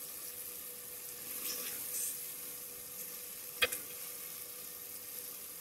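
Chopped tomatoes, onion and green chillies sizzling steadily in hot oil in an aluminium pot, the tomato masala base cooking down. A single sharp tap cuts through a little past halfway.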